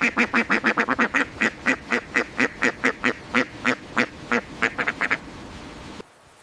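An animal giving a rapid series of short, repeated calls, several a second. The calls stop about five seconds in.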